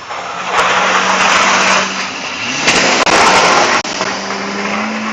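A motor running with a steady low hum under a loud rushing noise; about two and a half seconds in, its pitch glides briefly upward.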